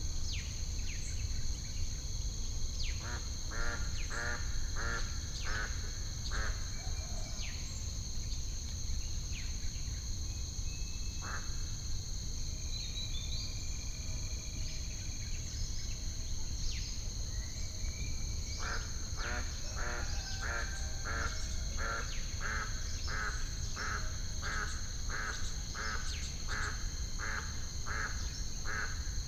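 Ambient nature track: a duck quacking in long even runs of about two calls a second, one near the start and a longer one from about two-thirds of the way in, over a steady high insect buzz, scattered small bird chirps and a low rumble.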